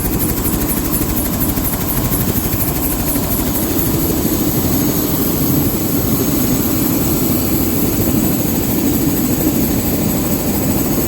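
Helicopter engine and rotor running with a loud, steady noise.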